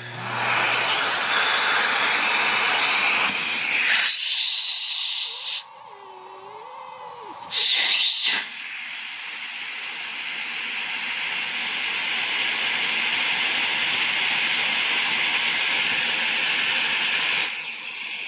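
Miele Red Velvet canister vacuum switched on just after the start and running with a water lift gauge on the end of its hose: a loud steady rush of motor and air, with a brief high whistle about four seconds in. Around six seconds in it drops quieter for a couple of seconds with a wavering low tone, then returns to a steady rush that builds slightly.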